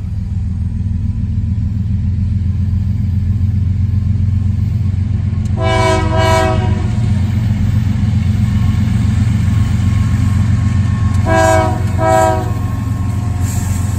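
CSX diesel-powered intermodal freight train running past with a steady low rumble, its locomotive air horn sounding a chord in two short blasts about six seconds in, and two more short blasts about eleven seconds in.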